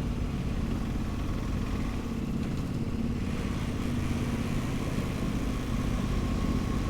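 Motorcycle engine running steadily with an even low hum.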